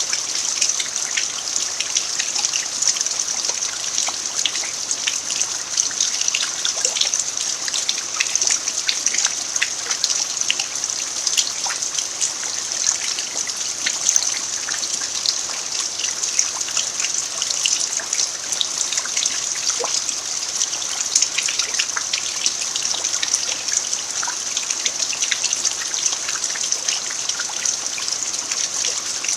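Steady rain falling on a bare-earth yard: a constant hiss with many small drop ticks scattered through it.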